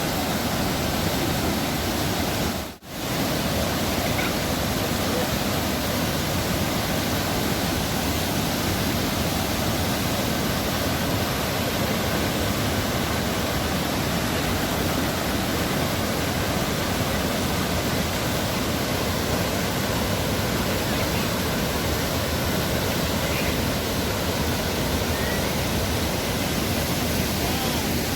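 Dubai Water Canal waterfall: a steady, loud rush of falling water, with a brief dropout about three seconds in.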